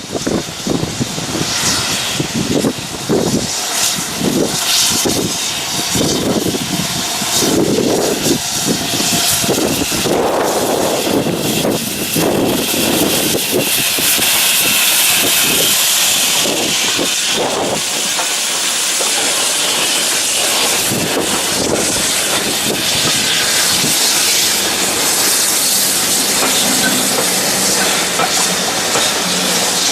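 Steam locomotive working past: its exhaust beats chuff evenly at a little under two a second for the first third, then give way to a loud, steady hiss of steam.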